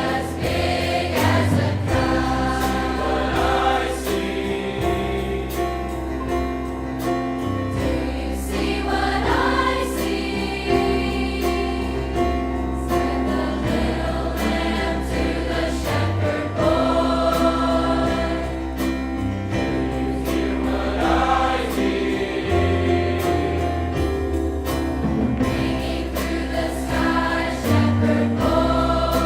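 A large high school choir singing with instrumental accompaniment: sustained bass notes under the voices and a steady beat.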